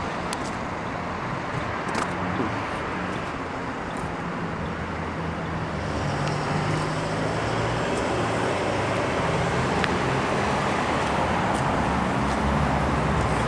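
Ford Mustang GT's 4.6-litre V8 idling steadily, its low rumble growing louder about halfway through.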